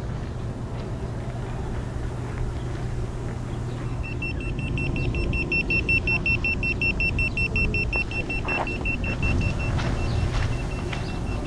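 Car running, a steady low engine and road hum heard from inside. About four seconds in, a rapid series of high electronic beeps starts, like a vehicle warning chime, and fades away after about five seconds.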